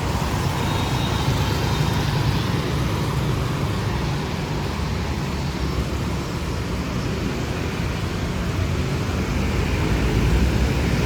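Steady street traffic noise from motorbikes and cars passing on a city road.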